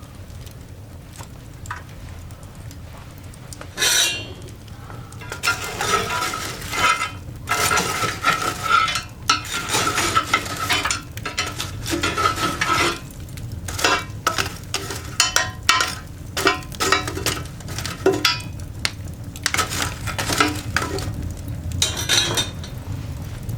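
Metal scraping and clattering at a coal fire in a cast-iron dog grate, with a ringing metallic note, over the fire's crackle. It begins with one sharp clatter about four seconds in, then runs on almost without a break.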